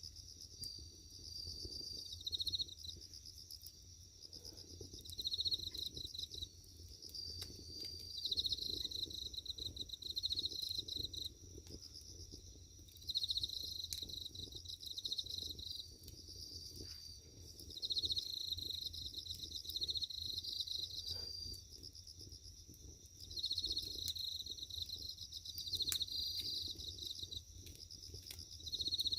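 Insects chirp in pulsed trills that come and go every few seconds over scattered small pops and crackles from burning firewood.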